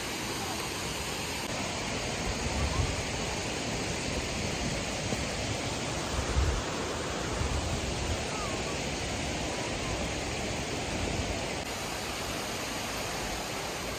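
Steady rushing noise of a waterfall, even and unbroken, with a couple of brief low thumps about three and six seconds in.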